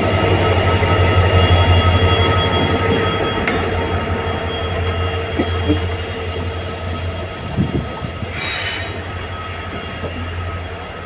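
Passenger train running along the track with a steady low rumble and held high wheel-squeal tones, slowly getting quieter. A short hiss about eight seconds in.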